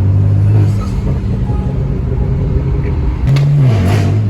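Car engine and exhaust droning steadily while driving. About three seconds in, the pitch briefly jumps up and then drops lower, like a gear change, with a couple of short clicks.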